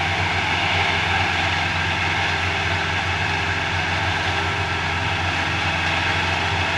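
Heavy engine of a concrete mixer machine running steadily at a constant speed, a low drone with an even mechanical hum above it.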